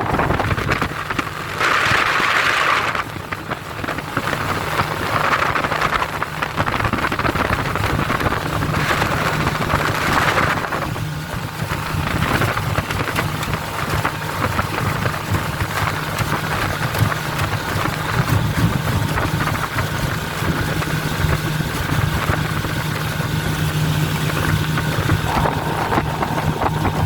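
Selva 15 hp outboard motor running steadily with the boat under way, its steady drone under a rushing noise of water and wind that swells a few times.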